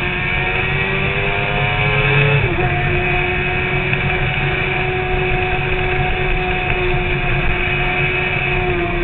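Suzuki sport bike's engine pulling at speed, its pitch climbing slowly, then dipping sharply about two and a half seconds in at an upshift and running steadily after. Wind rush on the microphone underneath.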